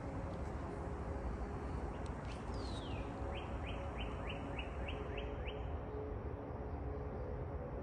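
A songbird sings one phrase about two seconds in: a falling whistle followed by a quick run of about eight short rising notes. A steady low rumble underlies it.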